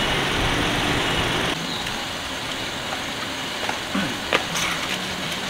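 Toyota Innova's engine idling steadily, cut off suddenly about a second and a half in, leaving a quieter outdoor background with a couple of light knocks.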